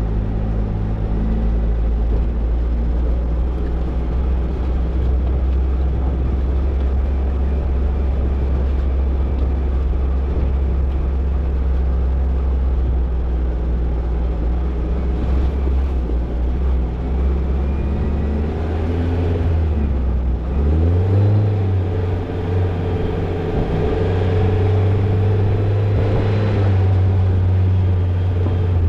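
Toyota Tercel 4WD wagon's engine running steadily while the car drives. About two-thirds of the way through, the engine note dips briefly, then rises in pitch and holds steady at the higher note.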